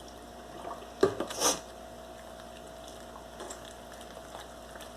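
Milk poured into a bowl of cake batter: a short splash about a second in, then only a few faint soft sounds from the bowl.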